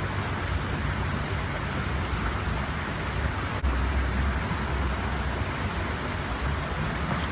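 Waterfall rushing with a steady, even hiss, over a low rumble that swells a little past the halfway point.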